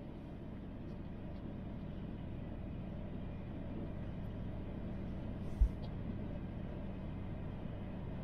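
Interior running noise of an ICE high-speed train cruising at about 249 km/h: a steady low rumble, with one brief low thump about five and a half seconds in.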